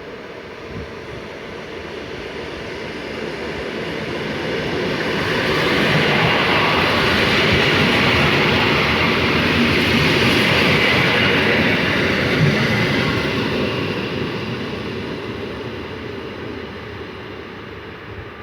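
A passenger train passing by on the rails. Its noise builds over the first several seconds, stays loud for about six seconds, then fades away.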